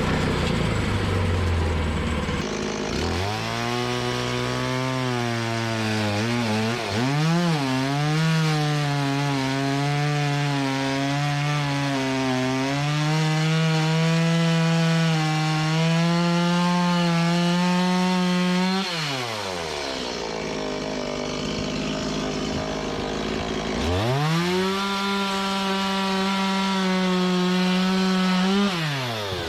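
Gasoline-powered saw cutting a log. The engine idles, revs up about three seconds in, and its pitch wavers under load before holding high and steady. It drops back to idle after about fifteen seconds, then revs high again for about five seconds near the end.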